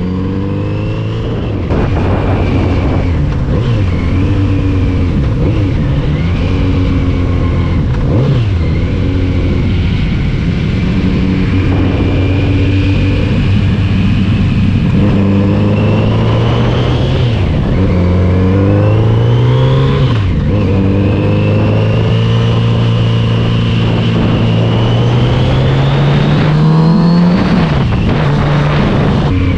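Motorcycle engine under way, accelerating through the gears: its pitch climbs and then drops back at each gear change, several times over.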